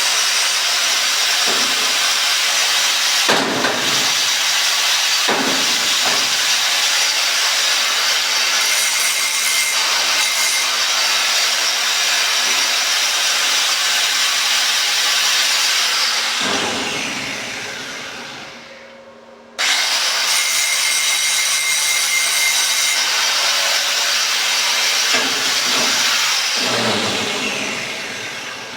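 Angle grinder grinding down a weld on a repaired padlock. About two-thirds through it is switched off and winds down, starts again abruptly, then winds down once more near the end.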